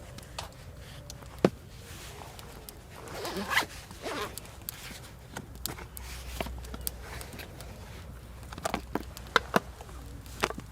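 Wood campfire crackling, with scattered sharp pops and a brief rasp about three and a half seconds in.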